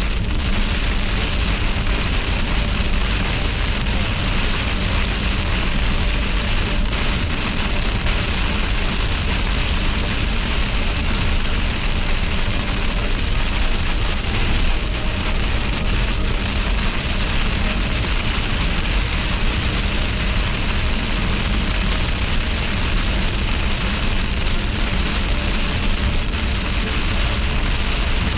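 Steady heavy rain hitting a vehicle during a severe thunderstorm, over a constant low road-and-engine rumble.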